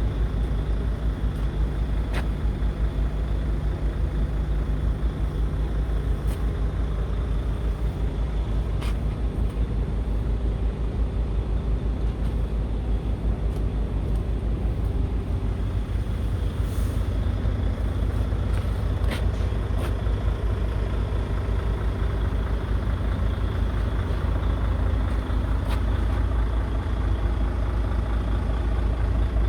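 Scania R tractor unit's diesel engine idling steadily with a low, even rumble. A few faint clicks are heard now and then.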